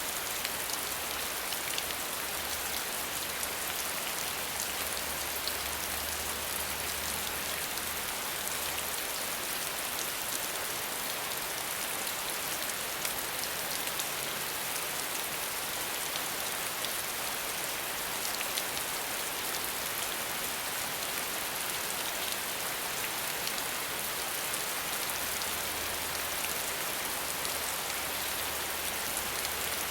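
Steady rain falling without thunder: a dense, even hiss of drops on a surface, with fine individual drop ticks and no change throughout.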